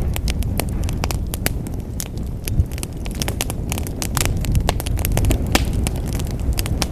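Fire burning in a fireplace, crackling steadily with many sharp, irregular pops over a low rumble of flames.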